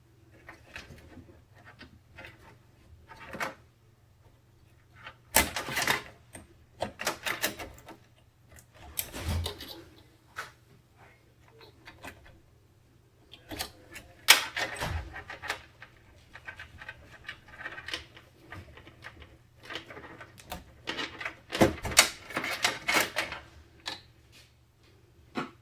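Hands handling PC components and packaging: irregular clicks, taps and rustles, with a few louder clatters, over a faint steady low hum.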